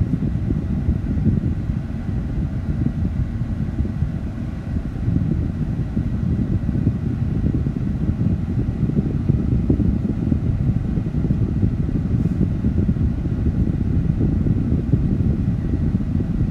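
Steady low rumble inside the cab of a truck driving slowly: engine and tyre noise.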